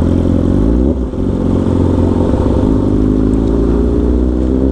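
Superbike engine running with a low, rhythmic 'pada pada' exhaust note, the revs dropping off around the first second and then slowly rising again.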